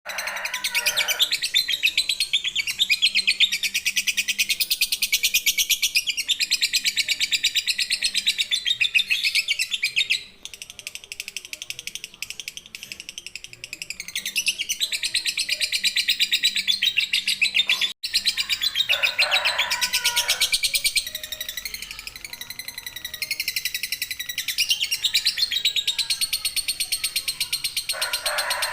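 Lovebird singing a long ngekek: a fast, unbroken chattering trill held for many seconds at a time. It pauses briefly about ten seconds in and cuts out for an instant about eighteen seconds in.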